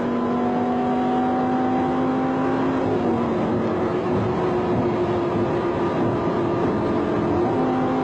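A vehicle engine running hard at speed under heavy road and wind noise. Its note climbs slowly, then drops about three seconds in.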